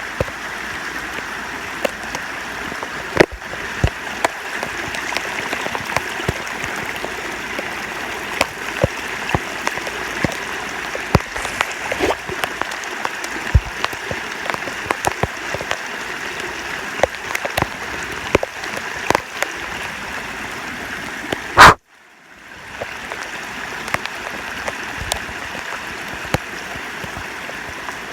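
Heavy rainwater running down a flight of stairs: a steady rushing flow with many sharp drips and splashes from the rain. About three quarters of the way through there is one loud sharp knock, and the sound cuts out for a moment before coming back.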